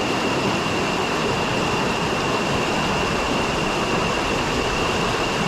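Rushing river water, a loud steady noise, with a steady high-pitched tone over it.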